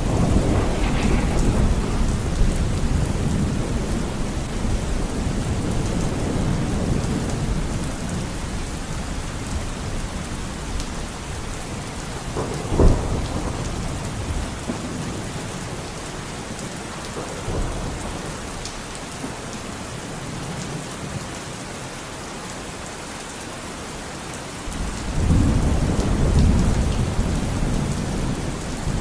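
Steady rain with rolling thunder. A deep rumble fades away over the first several seconds, a sharp thunder crack comes about halfway through, and another rumble builds near the end.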